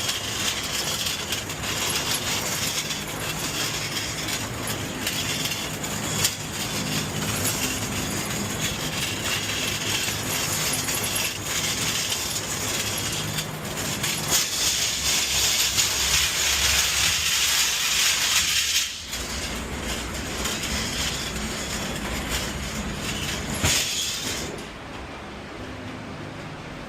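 A loaded delivery cart rolling over hard ground with a continuous rattling clatter of wheels and metal frame. It grows louder partway through and then eases off near the end.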